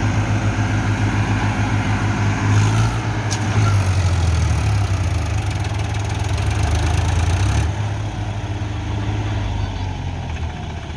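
Tractor diesel engine running hard under the load of a mud recovery pull, growing louder a couple of seconds in and easing off after about five seconds.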